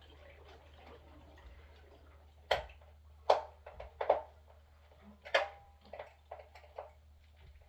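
Irregular sharp clicks and knocks, four louder ones between about two and a half and five and a half seconds in, from fitting the cover plate and its screws over the wiring junction box of an electric water heater.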